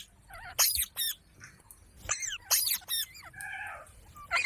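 Pet parrot giving a series of short, sharp squawks in uneven clusters, calls the owner ties to its trying to feed a baby parrot.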